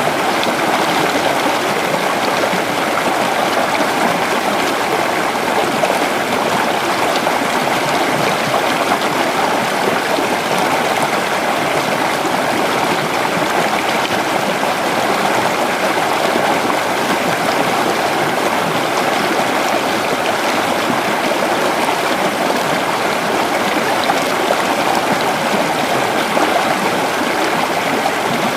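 A shallow creek flowing steadily over stones: a continuous, even rush of water with fine gurgling.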